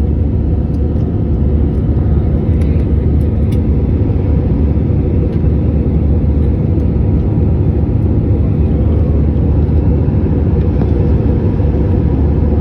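Steady low rumble of an airplane in flight, heard from inside the cabin: engine and airflow noise, unchanging throughout.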